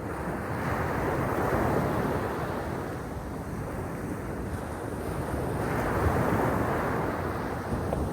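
Sea waves breaking and washing on the shore, the surf swelling about a second in and again about six seconds in, easing between.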